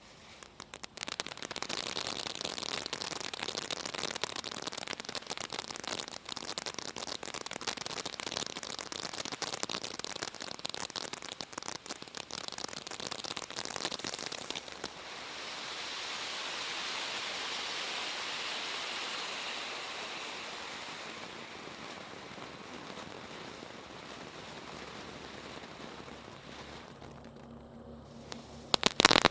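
Bee's Knees consumer firework going off with dense silver and gold crackle: a thick, rain-like crackling for about fifteen seconds, then a smoother, softer hiss of crackle that slowly dies down.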